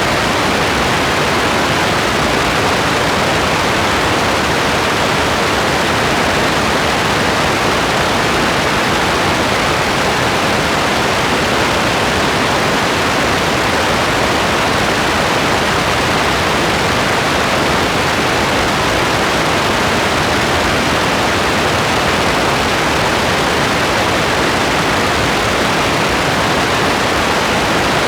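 Steady rain falling, an even, unchanging hiss with no separate drops or other events standing out.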